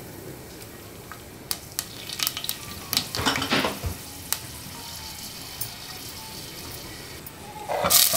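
Whole spices sizzling gently in hot oil in a stainless steel pressure cooker, with a few light clicks. Near the end, sliced onions tipped into the oil set off a sudden, much louder sizzle.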